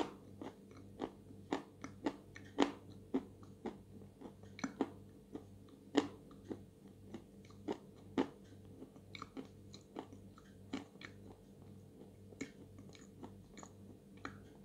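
A person chewing and crunching dry chalk in the mouth. The crisp crunches come irregularly, thick in the first half and thinning out towards the end.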